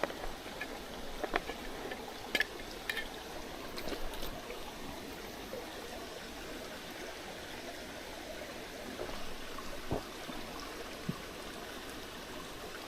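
Mountain stream babbling steadily, with a few short clicks of handling now and then.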